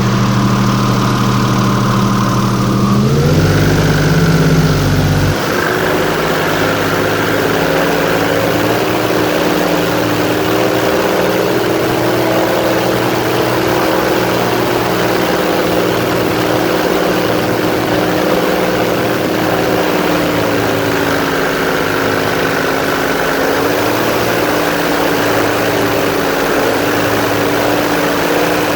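Airboat's engine and propeller running loud, stepping up in pitch about three and five seconds in as it throttles up, then holding a steady drone.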